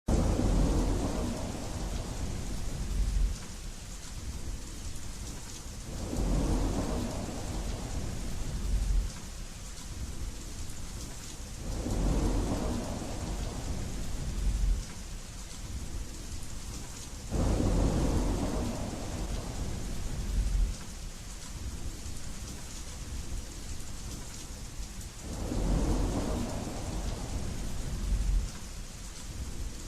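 Steady rain hissing, with low rolling thunder swelling up and fading about every six seconds, five rumbles in all.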